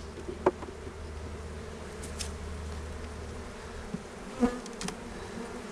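Honeybees buzzing steadily around an open hive, with a few sharp knocks about half a second in and again around four and a half seconds.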